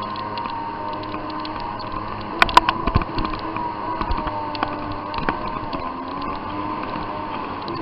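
Jet ski engine running steadily at low speed, with a few sharp knocks about two and a half seconds in.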